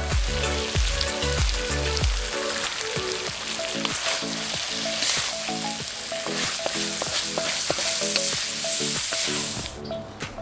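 Chicken and zucchini sizzling in a hot carbon steel wok as they are stir-fried, over background music. The sizzling stops abruptly near the end.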